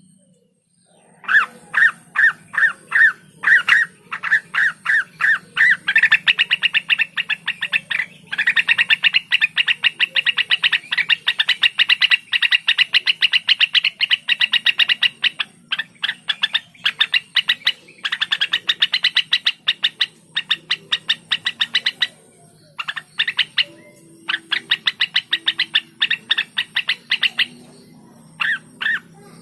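Cucak wilis leafbird singing loud, fast runs of sharp repeated notes, many a second, broken by a few short pauses. A faint steady hum lies underneath.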